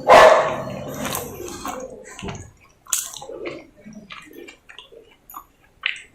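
Close-up eating sounds of a person chewing roti with potato sabzi. A loud wet, noisy burst comes right at the start and fades over about two seconds, followed by scattered soft chewing, squishing and small mouth clicks.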